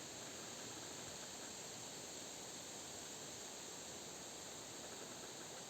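Faint, steady rush of wind through pine crowns, with no distinct creaks.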